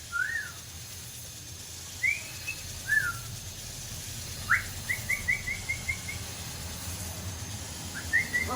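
Pet parrot whistling and chirping: short single arched whistles every second or so, then a quick rising note followed by a run of about six short notes, about five a second, and a few more rising notes near the end.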